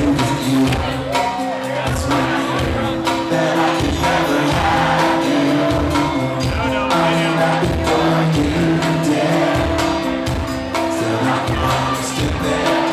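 Rock band playing live, heard from the crowd: sustained instrumental chords over a steady beat, with some singing and audience voices.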